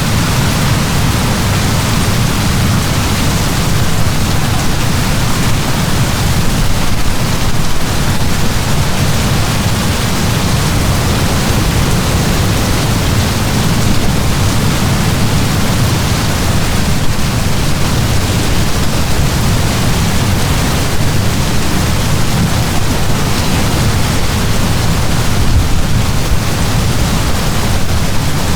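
Heavy rain downpour, a steady dense hiss with a deep rumble underneath.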